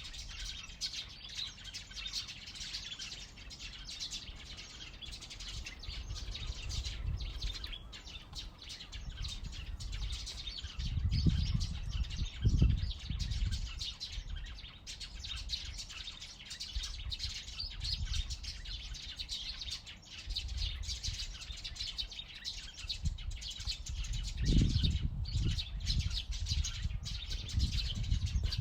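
A dense, continuous chorus of many small songbirds chirping and singing at once. A low rumble swells under the birdsong a little before halfway and again near the end.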